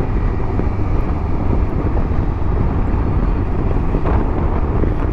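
Honda Transalp 650's V-twin engine running steadily while riding, mixed with wind rush on the microphone.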